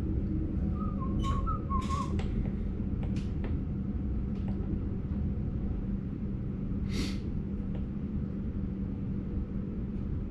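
Cab interior of a Sprinter Light Train (SLT) electric multiple unit: a steady low rumble with a constant hum. A few short, high whistle-like chirps come about a second in, and a brief hiss about seven seconds in.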